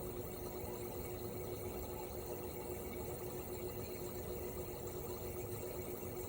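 Toshiba RAS-285BAD air conditioner outdoor unit running steadily in cooling mode: its inverter-driven twin rotary compressor hums with one clear steady tone over the rush of the propeller fan.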